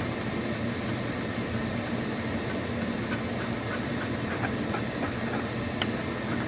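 Steady mechanical hum and hiss of a running appliance, with a few faint light ticks over it.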